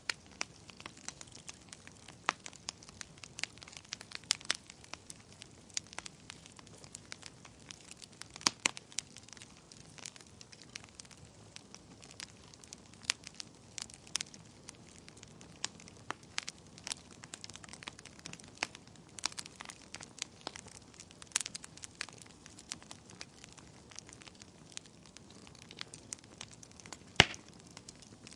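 Wood fire burning in a fireplace, crackling with irregular sharp pops over a faint steady hiss; one louder pop near the end.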